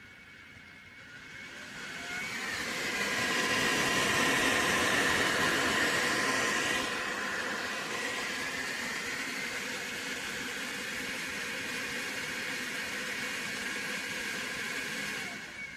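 ELEGOO Centauri Carbon CoreXY 3D printer running with a steady whir that builds up over about two seconds, eases a little about seven seconds in, and cuts off suddenly near the end.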